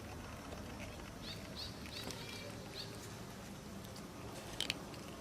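A run of about five short, high animal chirps in the first half, then two sharp clicks near the end, over a steady low rumble.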